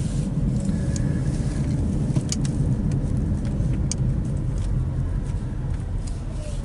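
Car driving along, heard from inside the cabin: a steady low rumble of engine and road noise, with a couple of sharp ticks.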